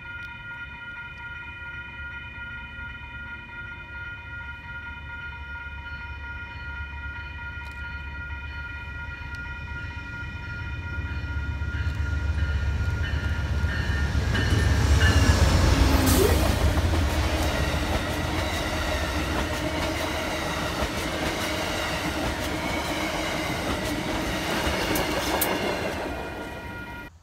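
A train approaching and passing close by, growing louder to a peak about halfway through and staying loud as it rolls past. Steady high tones sound throughout, and the sound cuts off abruptly near the end.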